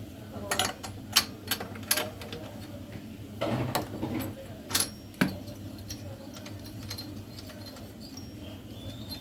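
Metal tool clicks and clinks: several sharp taps in the first two seconds, a short scraping rustle about three and a half seconds in, then two more clicks. The spark plug is being removed from a Victa Tilt-A-Cut power edger's two-stroke engine so its flooded crankcase can be emptied.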